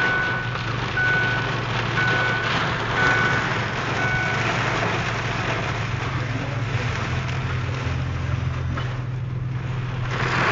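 Heavy rain and wind on a car, heard from inside the cabin over a steady engine hum. A short electronic beep sounds about once a second and stops about four seconds in.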